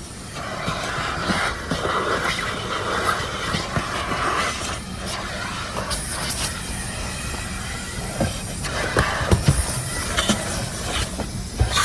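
Car wash vacuum running, a loud hiss whose pitch shifts as the nozzle moves, with scattered knocks and clatter.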